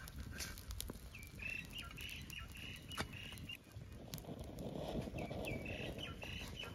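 A bird singing runs of short high chirps, one run about a second in and another near the end. Under it a wood fire crackles, with a few sharp snaps; the loudest comes about three seconds in.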